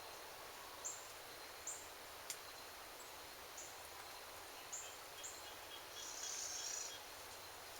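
Small birds giving short, high chirps every second or so, with a single sharp tick a little after two seconds and a brief buzzy trill around six seconds in, all faint over a steady hiss.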